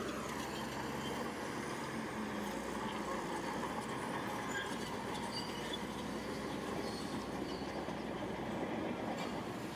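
Heavy earthmoving machine's diesel engine running steadily, its pitch dropping just at the start.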